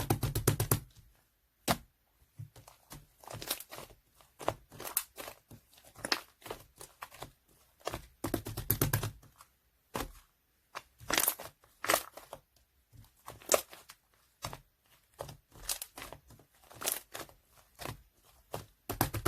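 Hands squishing and stretching slime, making irregular sticky clicks and crackling pops, with denser, heavier squelches near the start and about eight seconds in.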